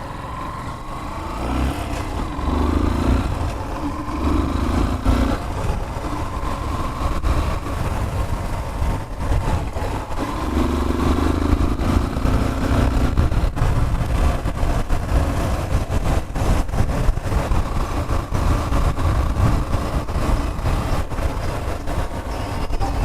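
Motorcycle running on the move, a steady low rumble that swells and eases in uneven surges, with wind noise buffeting the microphone.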